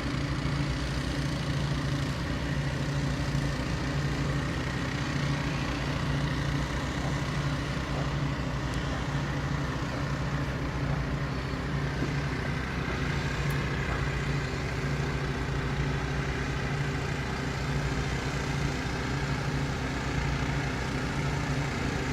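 Several fuel-driven portable water pumps running steadily at once, making a constant engine drone.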